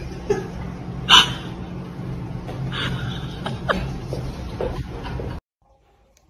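A cat's short cries and meows over a steady background hum, with one loud cry about a second in and falling meows near the middle. The sound cuts off abruptly about five seconds in.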